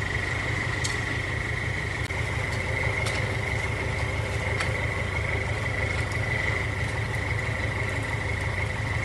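Truck engine idling with a steady low rumble, under a continuous high-pitched insect trill.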